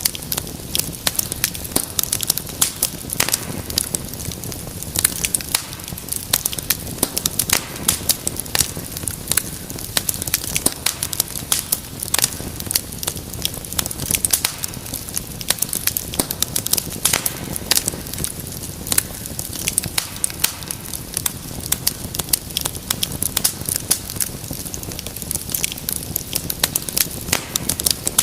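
Wood fire crackling steadily in a fireplace: many sharp, irregular pops and snaps over a soft, even rumble of flame.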